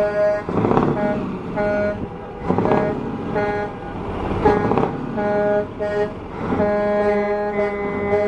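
Truck air horn sounding a chord in a series of short blasts, then one long held blast from about six and a half seconds in, with loud noisy rushes between the blasts.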